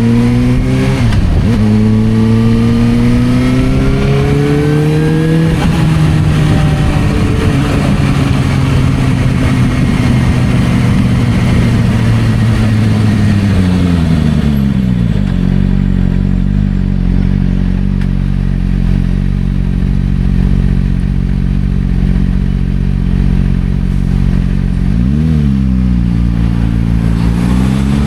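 Suzuki GSR600's inline-four engine through a Dominator aftermarket exhaust: accelerating with rising pitch and a gear change about a second in, cruising steadily, then dropping back to a low, steady idle about halfway through. A quick rev blip a few seconds before the end, and the pitch climbs again right at the end; wind rush while moving.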